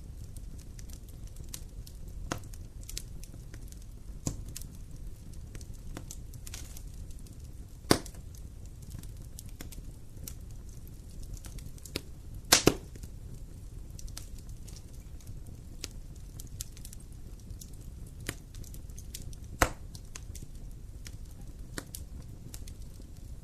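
Campfire crackling: scattered sharp pops and snaps over a low steady rumble. The loudest pops come about eight seconds in, as a quick double pop about halfway through, and again near the end.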